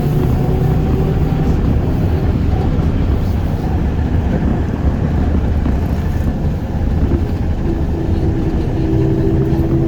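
Cabin noise of a ZiU-682G trolleybus on the move: a steady rumble of wheels and running gear on the road, with a humming tone that fades around the middle and comes back near the end.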